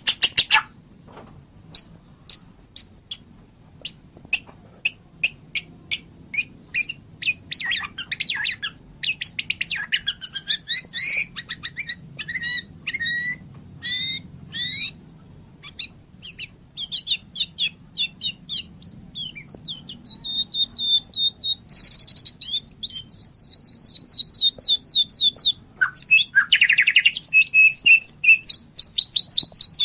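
White-rumped shama (murai batu) singing. It opens with a run of sharp, evenly spaced notes, about two a second, then moves into varied whistled phrases that glide up and down. Fast rattling trills follow in the second half.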